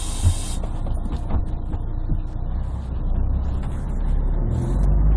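Inside a Scania CN113CLL city bus with its 11-litre Scania DSC11 diesel and Voith automatic gearbox: a hiss of compressed air stops just after the start, the engine runs low with a few single knocks from the body, then about four and a half seconds in the engine note picks up and grows louder as the bus moves off. The sound is bassy and muffled from a partly covered microphone.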